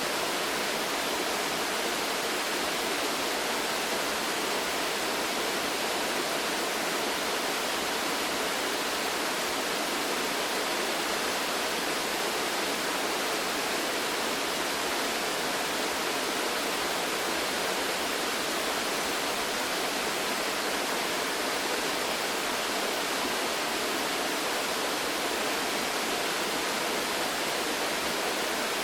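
Waterfall: water falling with a steady, unbroken rushing hiss that stays even and does not change.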